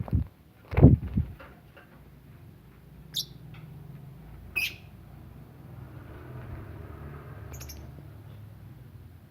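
Some loud low thumps in the first second or so, then three short high chirps from lovebirds spread through the rest, over a faint low hum.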